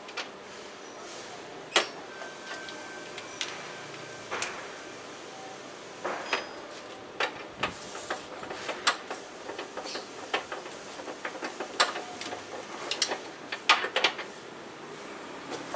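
About a dozen irregular sharp clicks, knocks and clinks, like metal tools and parts being handled and set down during car engine work.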